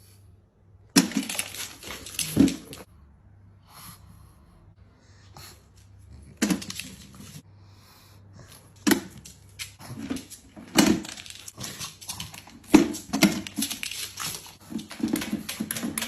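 A dog vocalizing in a series of loud, short bursts: one starting about a second in, then more at intervals, coming closer together near the end.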